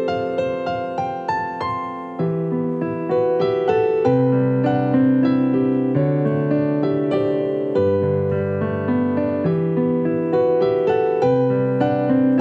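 Gentle solo piano music, a slow melody over held bass notes.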